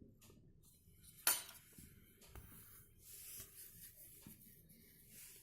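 A small plastic door lock switch from a front-loading washing machine being handled, with faint rubbing and one sharp click about a second in.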